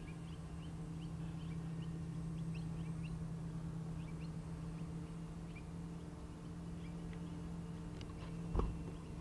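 Small birds chirping in short rising calls, a few a second, over a steady low hum; a single dull thump near the end.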